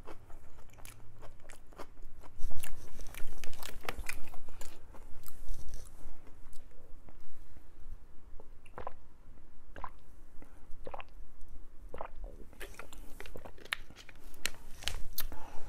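Close-miked chewing of a mouthful of food, with crunching and smacking clicks. They come thick and fast for the first several seconds, then thin out to occasional chews.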